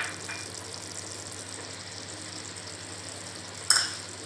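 Onion-tomato masala cooking in a clay pot on the stove, a steady low hiss with a faint hum under it. A single short, sharp clack about three and a half seconds in.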